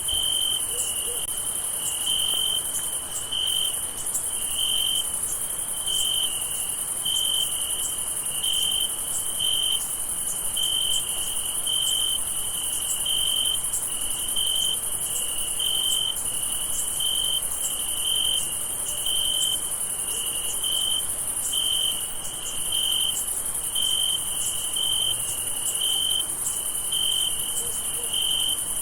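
Night chorus of crickets: a steady high-pitched trill, with a lower chirp repeating evenly about once a second.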